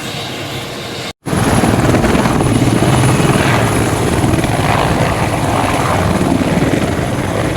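Military helicopter with its rotor blades chopping and engine running. It cuts out for an instant about a second in and comes back louder.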